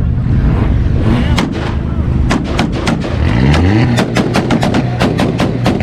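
Tuned car engine held on a two-step launch-control rev limiter, its exhaust firing a string of loud pops and bangs that quickens to several a second. Underneath, the engine runs steadily and revs up about three seconds in.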